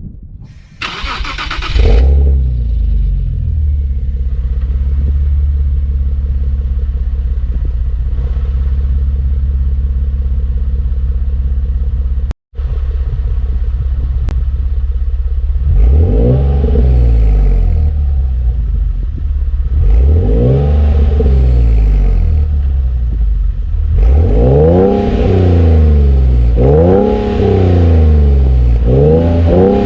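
Infiniti V6 through an aftermarket HKS exhaust: after a brief noisy burst about a second in, it idles steadily, then is revved up and let fall back, once, then again, then in several quick blips in a row near the end.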